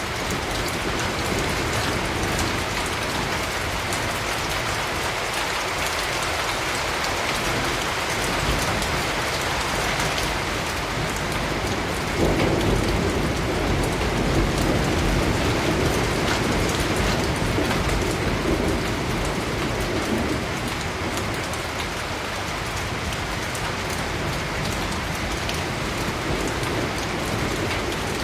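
Steady rain falling, with a long roll of thunder that starts suddenly about twelve seconds in and rumbles for several seconds before fading back into the rain.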